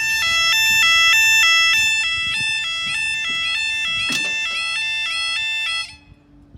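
Level crossing warning alarm sounding its alternating two-tone yodel, cutting off suddenly near the end.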